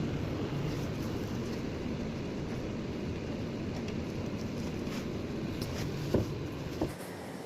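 Window air conditioner running with a steady hum and low rumble, with two short knocks near the end.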